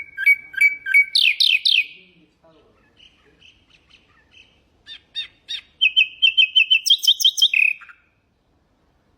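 Nightingale singing two phrases of rapid, repeated whistled notes and trills, separated by a short, quieter pause. The second phrase ends on a falling note about eight seconds in, and the song stops there.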